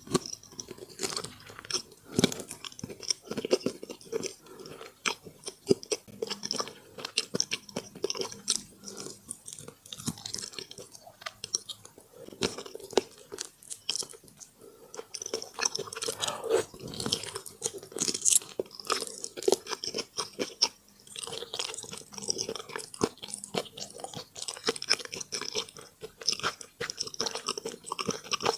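Close-miked eating sounds: a person chewing and biting food with crisp crunches and wet mouth clicks, in an irregular, near-continuous stream.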